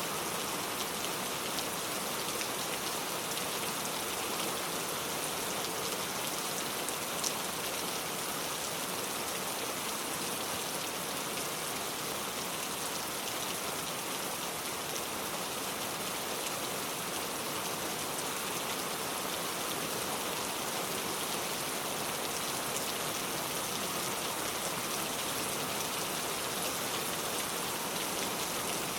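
Steady rain falling on a car, with a dense patter of drops and a few sharper single drop ticks.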